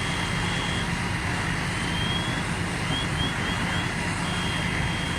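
Fire trucks' engines running in a steady low drone. High thin tones sound over it: a held tone at the start and again near the end, with short rising chirps in between.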